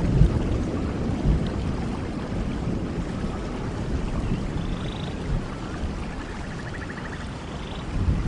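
Steady rain with a low rumble of thunder dying away over the first couple of seconds. Two faint short trills sound about halfway through and near the end.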